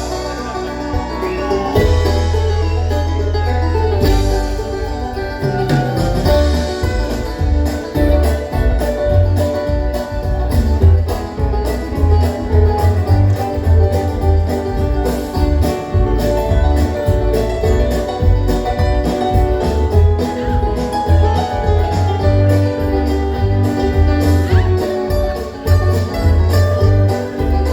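Bluegrass-style string band playing live: quick picked notes over a steady, prominent bass line, with a regular beat from about a third of the way in.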